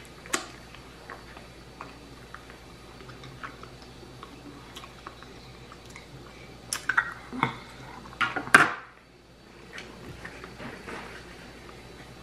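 A person chewing rotisserie chicken and rice close to the microphone, with wet mouth smacks and light clicks of a metal fork on a plate. A cluster of louder smacks and clicks comes about seven to eight and a half seconds in.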